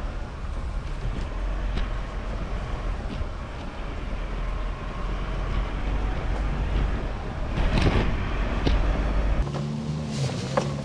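Off-road 4x4 driving over a rough dirt forest road: a steady low rumble with scattered knocks and rattles. Near the end it cuts suddenly to music with steady held notes.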